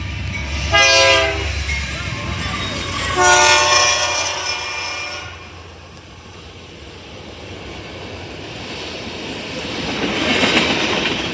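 Freight locomotive air horn sounding two blasts, a short one about a second in and a longer one about three seconds in, followed by the rumble and clatter of the tank-car train rolling along the track, growing louder near the end.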